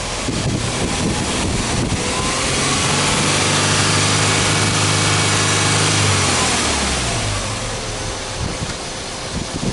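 Subaru Legacy 2.5 GT's turbocharged EJ25 flat-four engine free-revved: the revs climb over the first few seconds, are held steady, then drop back to idle about eight seconds in.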